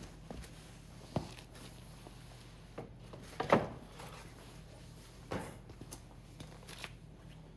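Firewood pieces knocking and rubbing against each other: a few separate wooden knocks, the loudest about three and a half seconds in, with light scraping between them.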